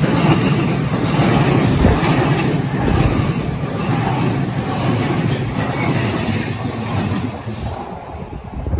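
JR E233 series 6000 electric commuter train passing at close range: a loud, steady rumble of wheels on rail with rapid clicks from the wheels over rail joints, easing off over the last two seconds.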